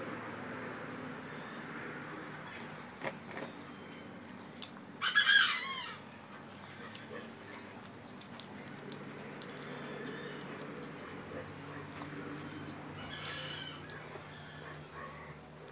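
A bird gives a short, loud, wavering call about five seconds in and a fainter one near the end, over steady room noise with many small clicks as food is picked apart by hand.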